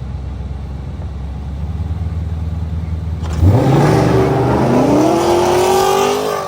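Muscle-car engines rumble low at a standstill. About three seconds in, they launch hard, and the loud engine note climbs steeply in pitch, then rises again as the cars accelerate away. The sound fades near the end.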